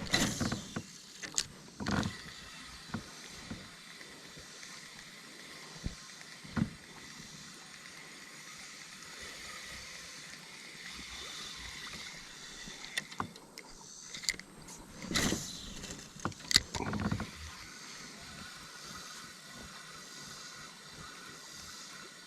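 Kayak on a small river: scattered knocks and splashes against the hull, in clusters near the start, about a third of the way in and about three quarters of the way in, over a steady wash of flowing water.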